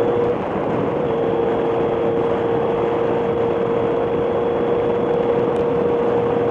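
Motorcycle on the move: a steady engine note under heavy wind and road rush. The engine note drops out briefly about half a second in, then holds steady.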